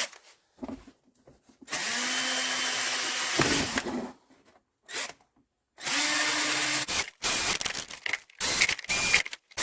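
Power drill drilling holes through a car's inner fender liner: one run of about two seconds, then several shorter bursts with pauses between.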